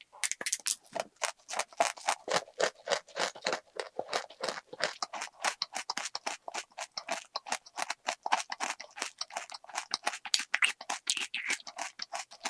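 Close-miked chewing of a mouthful of small candies just poured from a packet: rapid, irregular crunches and mouth noises, several a second.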